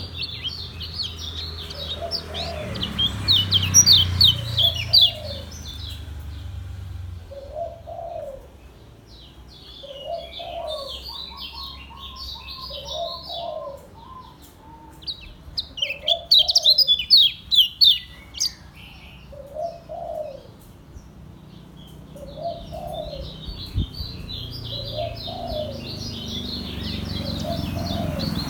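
Kecial kuning white-eye singing its fast, high twittering song in bursts. Under it, a dove coos a low call that repeats about every second and a half.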